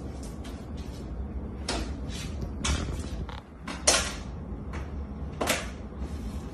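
A string of short creaks, scrapes and knocks, like things being moved or shifted about, the loudest a sharp knock about four seconds in.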